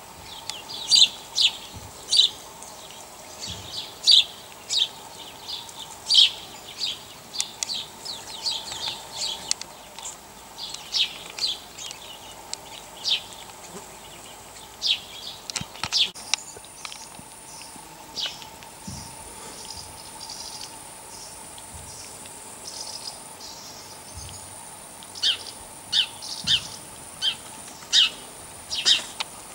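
Small birds chirping, short sharp calls coming in quick runs. From about halfway a thin, steady high-pitched whine sits behind them, breaking off a few times.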